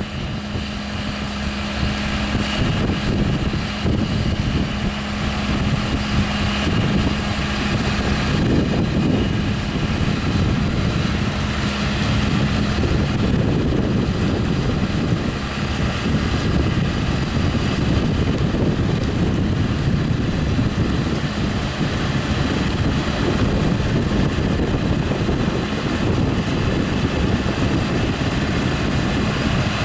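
John Deere 7R-230 tractor pulling a Grimme EVO-290 twin-row potato harvester while it digs and lifts potatoes: a steady engine and machinery drone with a constant low hum.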